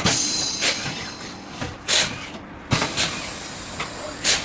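Tyre-fitting work: short blasts of hissing compressed air, one at the start and three more spread through, with a sharp clunk a little past the middle.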